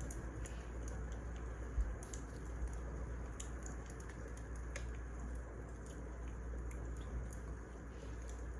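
Wood fire crackling in a fireplace: a steady hiss and low rumble with scattered irregular pops and snaps, and one low thump just under two seconds in.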